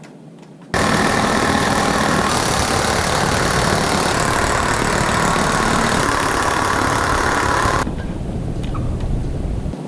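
A power tool's motor running loudly and steadily, starting abruptly about a second in and dropping off sharply after about seven seconds, with a quieter steady noise after it.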